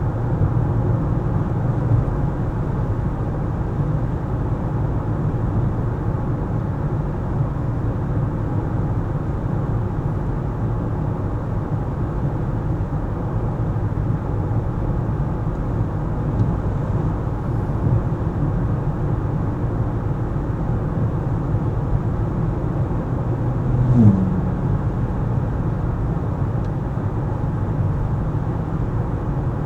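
Car driving, with a steady low road and engine noise. About three-quarters of the way through there is a single short thump, the loudest moment.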